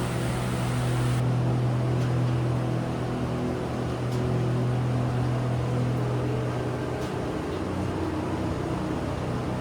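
A steady low mechanical hum with a rushing noise over it, like a running vehicle's engine and road noise.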